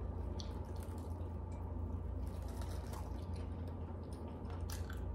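Chewing and wet mouth sounds from eating a forkful of soft macaroni and cheese, with scattered soft clicks, over a steady low hum.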